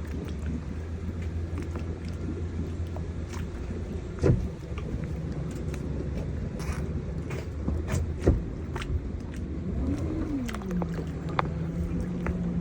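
Truck engine running steadily while it pulls the boat trailer up the ramp, with two sharp knocks. About ten seconds in, the engine note rises briefly, then settles at a steady higher pitch.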